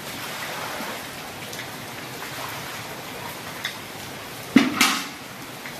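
Steady rain falling on a wet paved courtyard, with a few faint clicks and one sudden loud clatter about four and a half seconds in.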